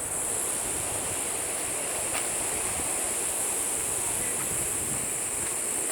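Waterfall rushing steadily, with a constant high-pitched insect drone over it.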